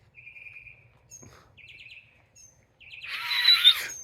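Northern mockingbird singing a string of varied phrases: quick trilled runs of notes, then a louder, harsher phrase about three seconds in.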